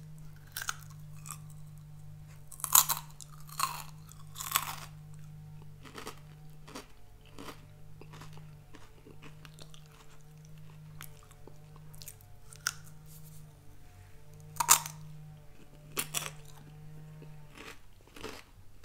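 A person biting and chewing crunchy, hollow Garden Veggie Straws sea-salt snack sticks, with irregular crisp crunches that come loudest a few seconds in and again about fifteen seconds in.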